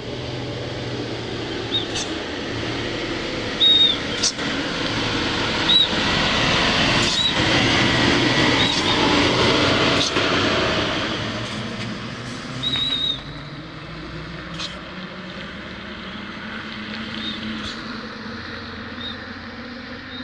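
Heavy dump truck's diesel engine working hard up a steep climb, growing louder toward the middle and easing off after about thirteen seconds. Short high chirps and a few sharp clicks sound now and then over it.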